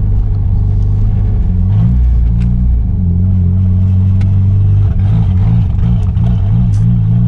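Mitsubishi G54B 2.6-litre turbo four-cylinder engine in a Chrysler Conquest running at low revs. Its pitch steps up under light throttle about two seconds in and wavers up and down near the end. The engine stumbles whenever it gets fuel, which the driver takes to be flooding out.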